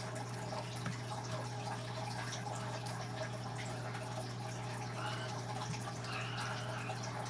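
Small drips and light splashes of water as boiled cicadas are handled in a bowl of cold water to pull off their wings, over a steady low hum.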